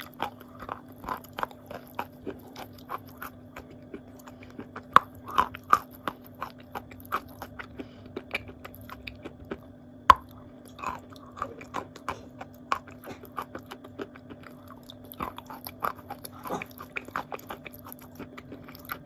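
Wet blue Uzbek clay being bitten and chewed close to the microphone: soft, irregular crunches, with a couple of sharper ones about five and ten seconds in. A steady low hum runs underneath.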